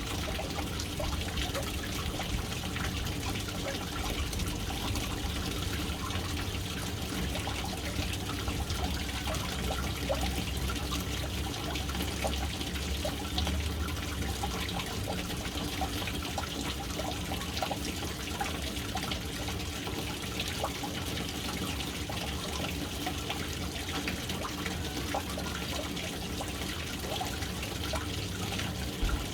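Water falling steadily into a household water tank, a continuous splashing trickle with a deep rumble underneath.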